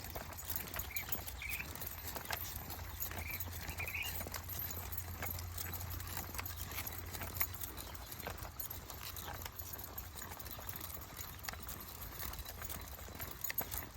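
Walking footsteps and paws on a trail: a run of irregular short clicks and scuffs over a steady low rumble, with a few brief high chirps in the first few seconds.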